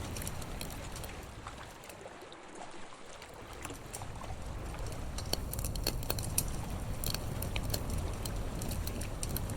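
Campfire crackling, with scattered sharp pops and snaps over a low steady rumble that dies down briefly about two seconds in.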